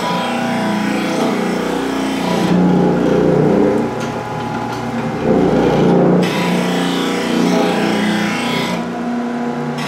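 Water-cooled knife grinder running as it grinds a wood chipper knife, with water running over the knife to keep it cool. The motor's pitch stays steady, and the grinding gets louder and rougher about three seconds in and again around five to six seconds in.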